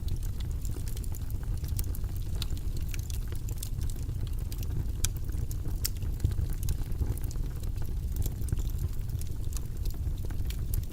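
Steady low, rumbling background noise with many small irregular clicks and ticks scattered through it.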